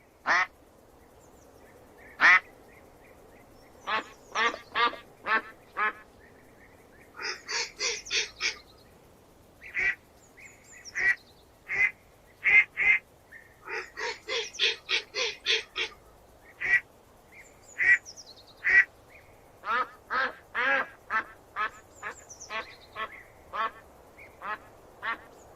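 Ducks quacking: a long series of short quacks, some single and some in quick runs of several.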